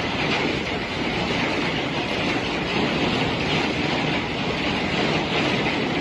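Strong storm wind blowing over the harbour, a loud, steady rushing noise with no let-up.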